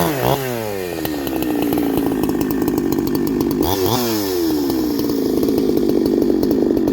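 Ported big-bore two-stroke chainsaw with a shotgun muffler coming off full throttle, the engine note falling quickly to idle. Near four seconds in it gives one quick blip of the throttle, then settles back to an uneven idle.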